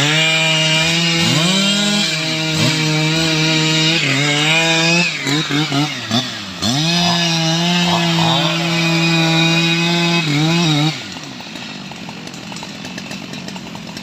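STIHL MS 881 chainsaw at full throttle cutting into teak wood. The engine holds a steady high pitch, dips and picks back up a few times in the middle, then its revs fall away about eleven seconds in.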